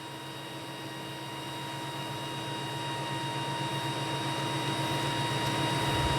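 Steady machine hum with a few thin high whining tones over a hiss, slowly growing louder.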